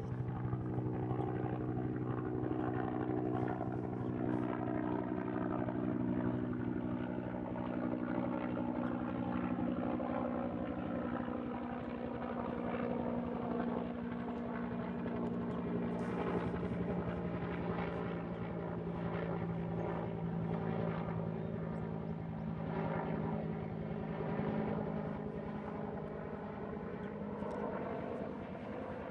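Aircraft flying over: a steady engine drone whose pitch drifts slowly lower, easing off near the end.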